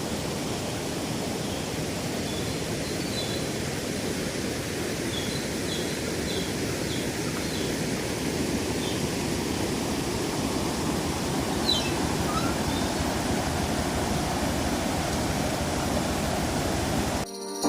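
A river rushing steadily, swollen after heavy rain, in a dense, even roar of water. A few faint short high chirps sound over it in the first half.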